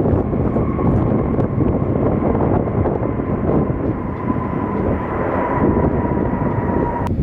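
Jet airliner engines passing close, a heavy low rumble under a steady whine that sinks slightly in pitch, cutting off abruptly near the end.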